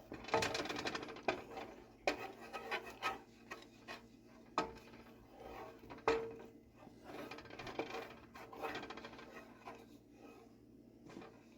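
A utensil stirring and scraping around a pan of creamy sauce, with irregular scrapes and sharp clinks against the pan.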